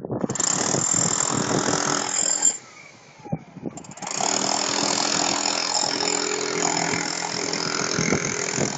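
A machine or engine running, dropping away for about a second and a half about two and a half seconds in, then running again.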